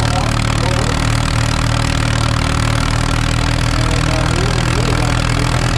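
Antique tractor engine running steadily at a constant speed, a low, even drone.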